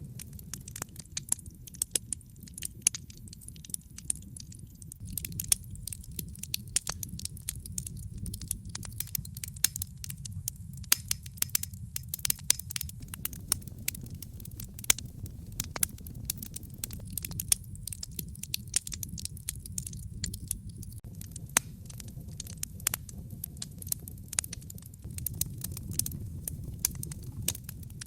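Wood fire in a fireplace crackling, with frequent sharp, irregular pops and snaps over a steady low rumble of the flames.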